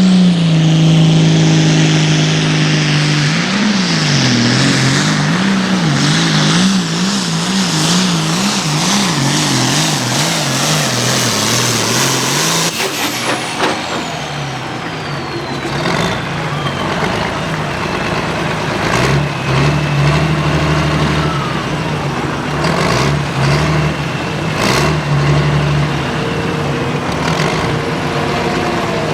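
Diesel pulling tractor of the hot farm class under full load on the sled, its engine note rising and falling rapidly over and over. About halfway through it settles to a lower, steadier run while a high whistle slides slowly down in pitch.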